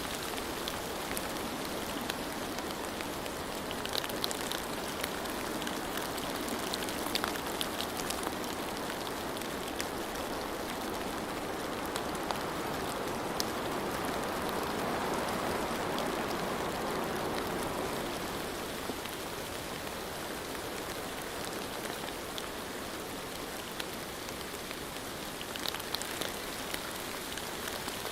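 Steady rainfall with the patter of individual drops landing on a hard surface. It swells slightly in the middle, and sharper drop taps stand out now and then.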